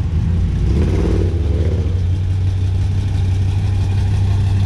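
A classic car's engine running at low speed with a steady deep rumble as it leaves, sounding healthy.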